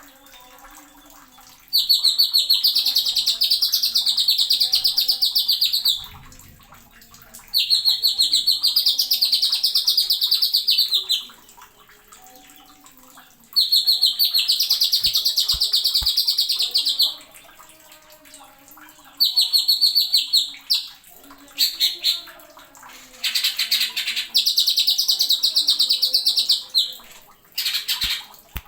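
Green leafbird (cucak ijo) singing in loud bursts of rapid, high repeated notes. There are six or seven bursts, each one to four seconds long, with short pauses between them.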